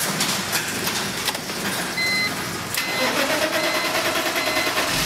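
BMW M54 inline-six engine cranking on the starter, hard to start, then catching about three seconds in and running. This is the hard-start symptom that goes with a stored P0340 intake camshaft position sensor fault. From about two seconds in, a short high beep repeats roughly every 0.7 s.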